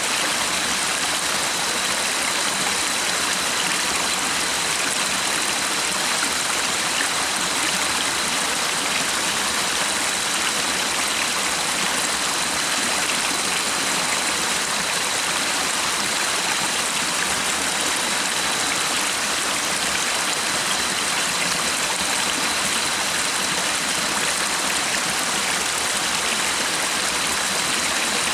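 Flowing stream water rushing steadily in an even, unbroken hiss, with a thin, steady high tone running underneath.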